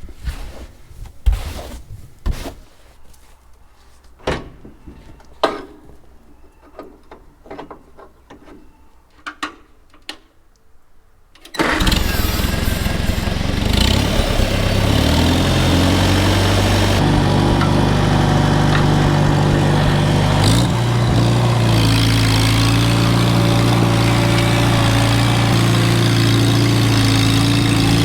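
A few sharp knocks and clicks, then about twelve seconds in an engine starts abruptly and runs steadily at a low, even pitch.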